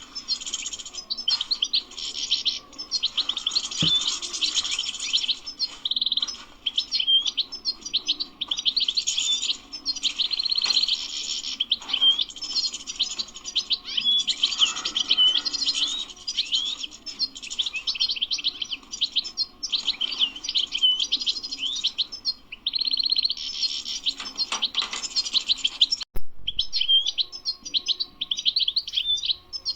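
Wild European goldfinch singing a long, near-continuous run of rapid twittering, trills and quick gliding notes, with a short break near the end.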